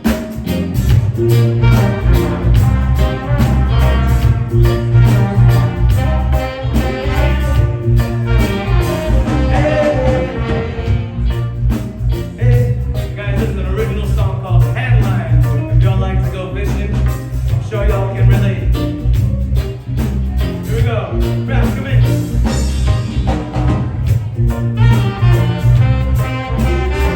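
Live band playing a song: drums and bass guitar keep a steady beat under keyboards and guitar.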